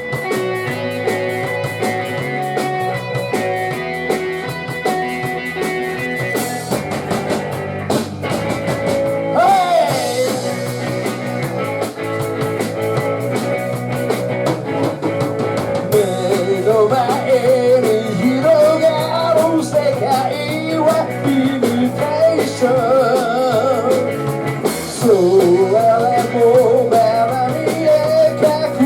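Rock band playing live, with a full band sound of guitars, bass and drums. About halfway through, a wavering, bending lead melody comes in over the band.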